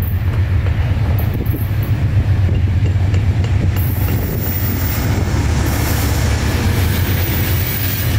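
Amtrak GE Genesis diesel locomotives passing close by, a loud steady low engine drone mixed with the rumble of the train rolling on the rails.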